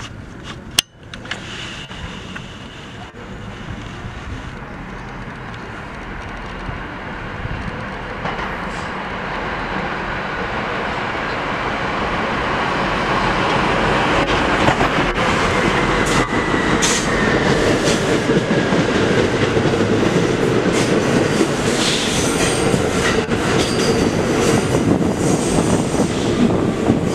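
A train approaching and passing, growing steadily louder, with wheels clattering over the rail joints and high-pitched wheel squeal in the second half. A sharp click about a second in.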